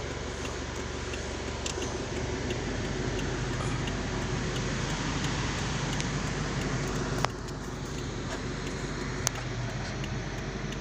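Isuzu diesel engine idling steadily, heard from inside the cabin, with a couple of light clicks about seven and nine seconds in.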